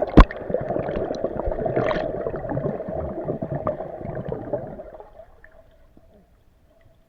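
A sharp splash, then water gurgling and churning, which dies away after about five seconds.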